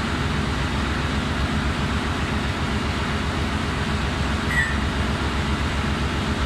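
Steady engine-room machinery noise: a constant low drone with a hiss over it, unchanging throughout.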